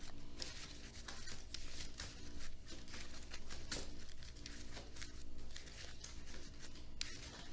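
Trading cards being flipped and handled on a tabletop: a run of short papery snaps and rustles.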